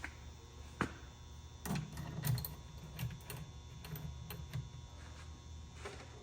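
Scattered small clicks and light metallic knocks of a saw chain being handled and positioned on a chain-sharpening grinder, over a faint steady low hum. The grinding wheel is not cutting.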